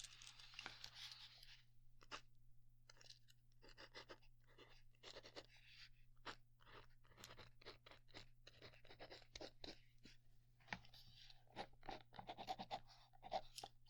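Faint writing on paper: a pen scratching in many short, irregular strokes.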